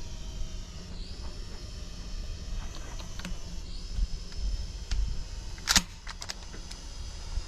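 Small quadcopter drone's motors whining steadily in flight, the pitch shifting a little as it manoeuvres. A single sharp, loud bang about two-thirds through is the shotgun shot at the drone, followed by a few faint clicks.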